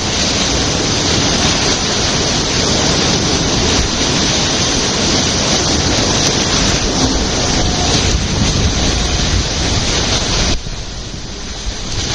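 Steady rushing roar of water being sucked down a large whirlpool. It turns briefly quieter about ten seconds in.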